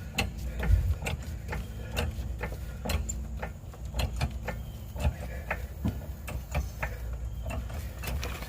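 Car jack being worked to raise a car, giving a run of irregular sharp mechanical clicks and knocks over a low rumble.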